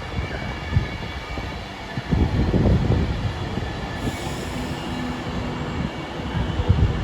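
A train running on the rails: a steady low rumble with irregular knocks from the wheels, louder for a stretch about two seconds in and again near the end.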